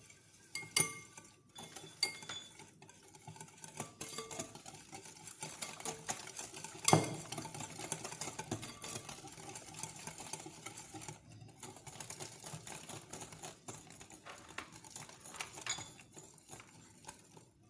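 Eggs, oil and sugar being mixed by hand in a bowl: steady stirring with small clinks of the utensil against the bowl, and one louder knock about seven seconds in.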